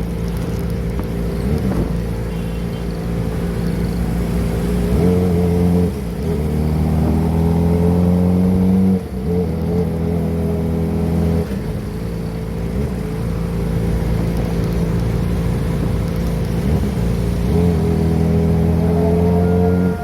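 Kawasaki ZX-25R inline-four engine breathing through a Prospeed aftermarket exhaust, running under way; its note climbs in pitch and drops sharply a few times, as on throttle rolls and gear changes, and climbs again near the end.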